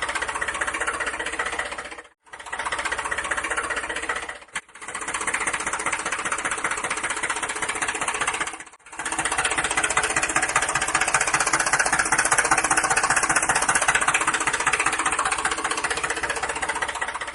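Small motor-driven miniature machine running with a fast, steady mechanical rattle. It breaks off briefly three times and is somewhat louder after the last break.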